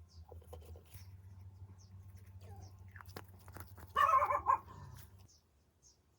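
A dog barking twice in quick succession about four seconds in, over a low steady hum that stops a little later.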